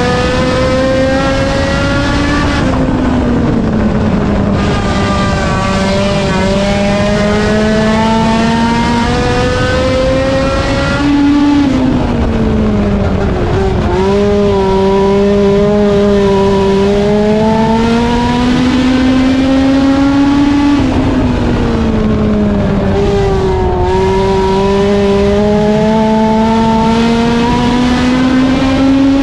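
A race car's engine at full throttle on an oval track. Its pitch climbs steadily for several seconds, then drops sharply as it lifts off, repeating about every eight to ten seconds, three times over.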